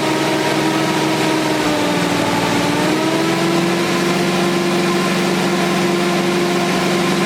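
Chevy C10 truck engine running steadily at a raised idle during camshaft break-in. Its speed dips slightly about two seconds in, then comes back up and holds.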